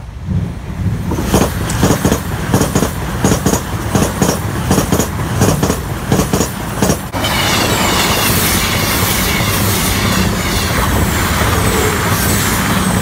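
A CrossCountry Voyager diesel train passing: for the first seven seconds its wheels clatter over the rail joints about three times a second. The sound then changes abruptly to a steady, louder rush of the passing train.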